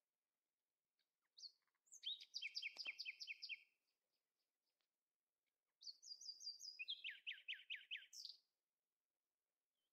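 A small songbird singing two short songs a couple of seconds apart, each a quick run of repeated chirping notes; the second song switches to lower notes halfway through.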